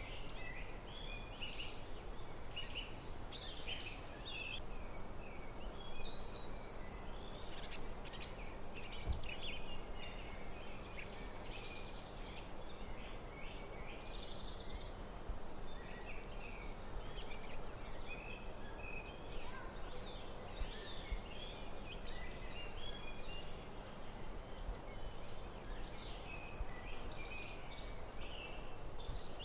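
Forest birdsong: several small birds chirping and calling in short, high notes throughout, over a steady background hum.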